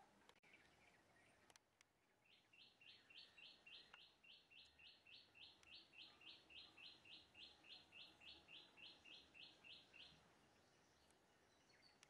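A bird giving a faint, even series of identical high chirps, about three a second. The series starts about two seconds in and stops some eight seconds later.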